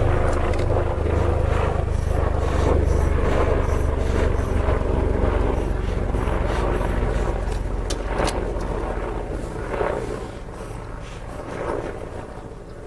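Honey bees buzzing close to the microphone in a steady low hum that fades about ten seconds in, with a few short knocks near the end.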